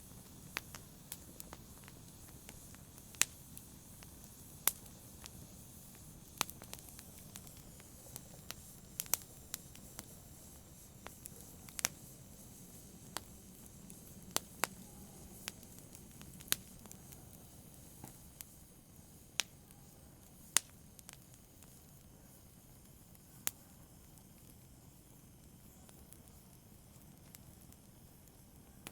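Wood fire burning: a soft low rush of flames with sharp, irregular crackles and pops from the burning wood, which come less often over the last several seconds.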